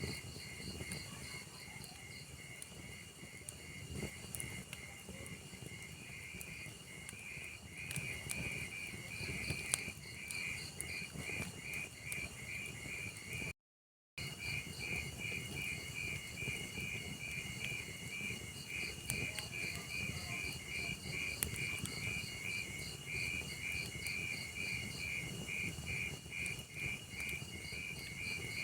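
Crickets chirping in a steady, even rhythm over a crackling log fire, with occasional sharp pops from the burning wood. Near the middle the sound cuts out completely for about half a second.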